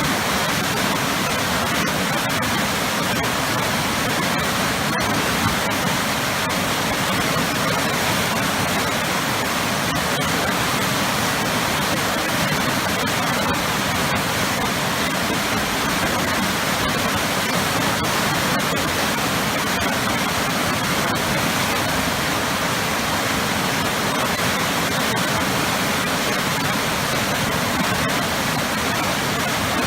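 Waterfall pouring into churning water, a loud, steady rushing roar without change.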